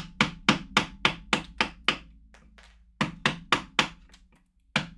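Mallet striking a carving chisel into a wood block in quick, even blows of about four a second: a run of eight strikes, a pause of about a second, then four more, and another near the end.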